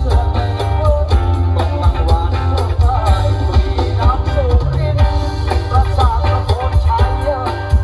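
Live Khmer kantrum music in the electric 4/4 style: a steady, loud drum beat and heavy bass under a wavering sung melody.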